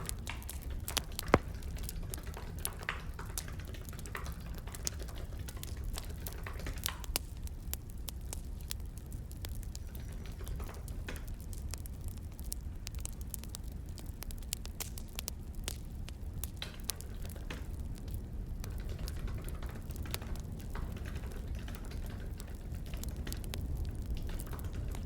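Wood fire crackling and popping: irregular sharp snaps over a steady low rumble, with one louder pop about a second in.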